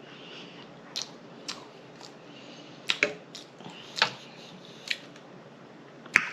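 Close-miked mouth eating sounds: a person chewing with wet lip smacks and sharp tongue pops, about seven crisp smacks spread across the few seconds.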